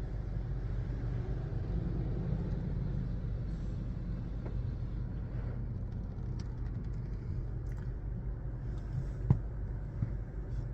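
Car engine idling steadily with a low hum, and one short sharp click near the end.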